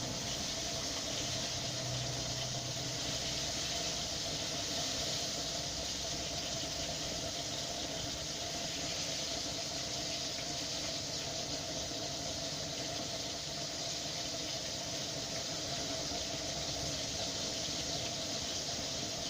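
Pieces of crucian carp sizzling steadily in hot oil in a frying pan, an even hiss with a faint steady tone underneath.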